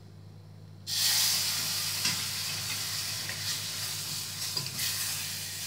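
Spices sautéing in oil in a small saucepan on a gas burner: a loud sizzle that starts suddenly about a second in and goes on steadily, with a wooden spatula stirring through it.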